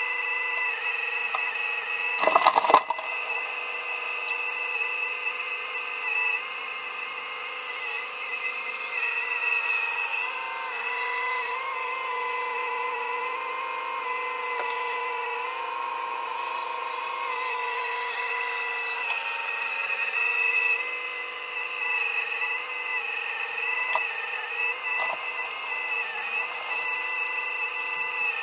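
Heavy earthmoving machine running steadily under load, its engine and hydraulics giving a high whine that wavers slightly in pitch, with a loud clatter about two seconds in and a few lighter knocks later.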